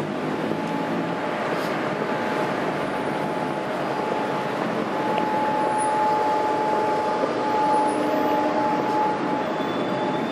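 Electric tram running on rails: a steady rumble of wheels and motor, with a steady high tone joining about halfway through.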